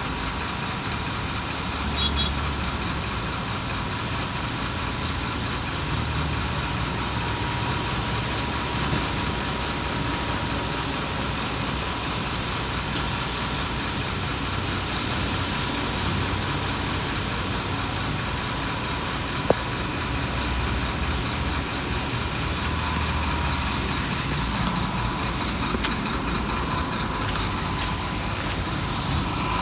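Heavy diesel earthmoving machinery running steadily at a construction site, its low rumble swelling and easing, with one sharp tick about twenty seconds in.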